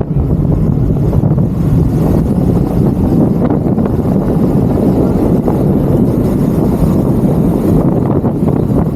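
Steady low rumble of road and wind noise from a moving vehicle in traffic.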